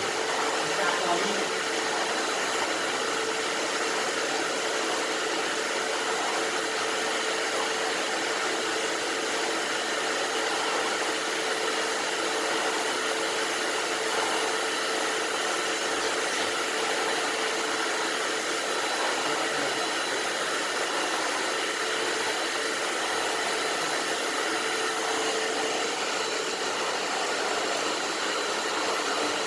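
STIHL SE 33 wet-and-dry vacuum cleaner running steadily: an even rush of air over a steady motor hum.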